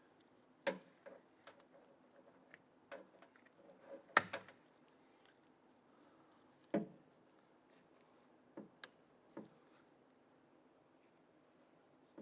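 Scattered light clicks and knocks of hard plastic parts being handled as a cover is slid and pressed onto a car door lock actuator, the sharpest click about four seconds in.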